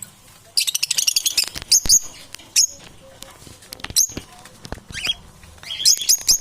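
Parrots calling: a dense burst of high chatter about half a second in, a few sharp separate squawks, then a fast run of short high calls, about three or four a second, near the end.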